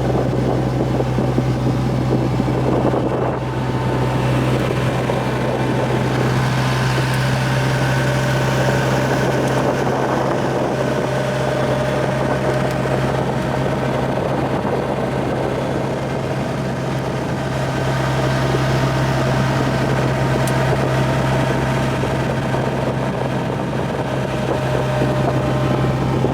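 Vehicle engine running steadily with a constant low drone while driving, with road and wind noise.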